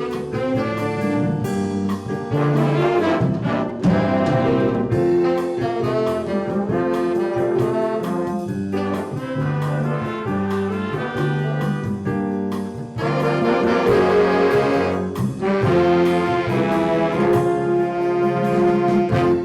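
Student brass ensemble playing a holiday piece, with trombones and trumpets carrying the tune over a low, steadily moving bass line. The music cuts off abruptly at the end.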